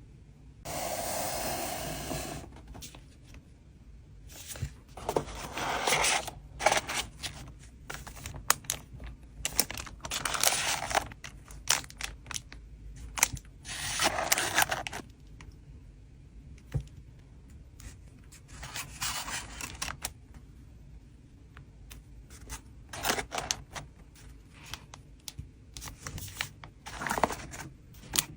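Hand-packing collectible cards: a series of rustles, scrapes and tearing sounds from plastic sleeves, bags and tape, with light clicks and taps in between. The longest rustle, about two seconds, starts about half a second in.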